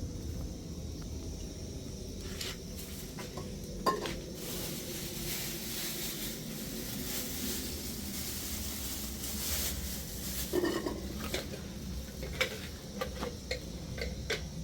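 Cooking sounds: a metal utensil clinking and scraping against a pot, with a hiss of sizzling that swells in the middle, over a low steady rumble.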